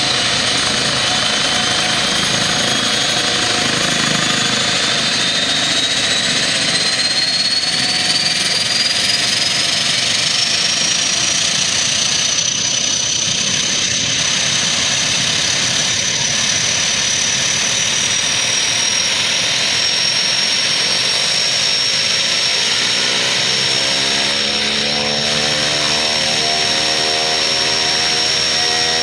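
Aircraft turbine engines running with a steady rushing noise and a high whine that climbs in pitch over about the first ten seconds, then holds steady. Near the end a deeper, humming set of tones comes in beneath it.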